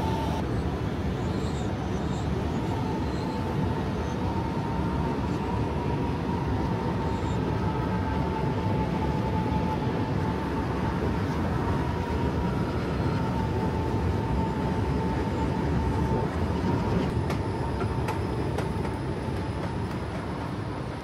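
A train running by: a steady low rumble with a faint, slightly wavering high whine held throughout.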